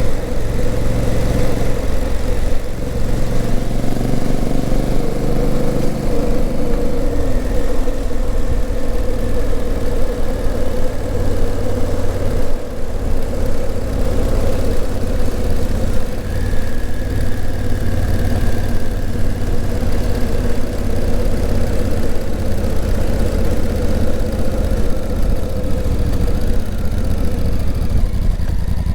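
Honda CRF1000L Africa Twin's 998 cc parallel-twin engine running on the road, its pitch shifting over the first several seconds and then holding fairly steady, over a constant rushing noise.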